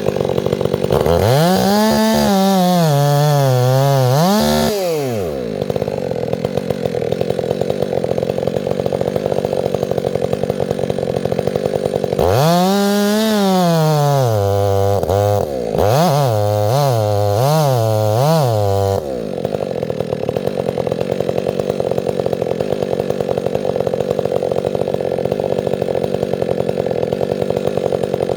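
Chainsaw idling steadily, revved up twice. The first rev starts about a second in and lasts a few seconds. The second comes about twelve seconds in, falls away, then gives several quick throttle blips before the saw settles back to idle.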